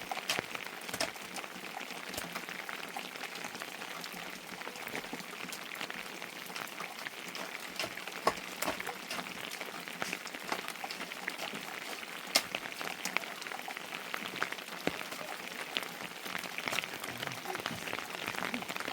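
Steady heavy rain falling, an even hiss with scattered sharper drop impacts standing out now and then.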